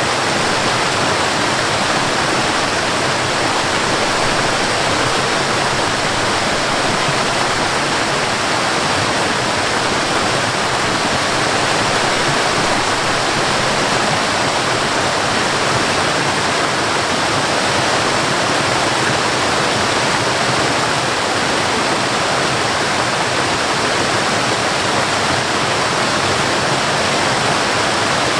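Waterfall with water pouring and splashing, a loud, steady, unbroken rush.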